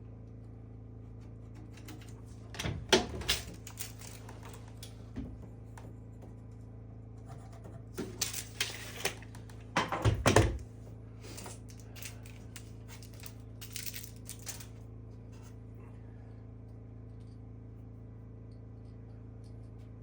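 Clusters of sharp clicks, clatter and knocks from small hard objects being handled, loudest about three seconds in and again around eight to ten seconds in, over a steady low hum.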